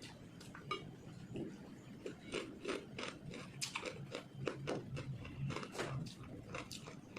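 Close-up eating sounds: irregular crunching and clicking while chewing fried pork, mixed with light clinks of utensils on a plate, over a low steady hum.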